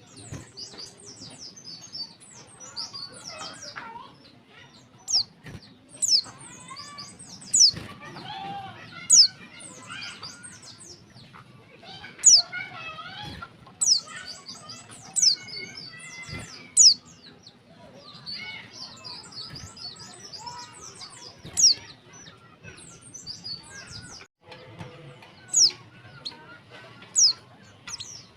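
Female white-eye (pleci) calling to attract males: short, sharp high notes that drop steeply in pitch, repeated every one to four seconds over continuous rapid twittering.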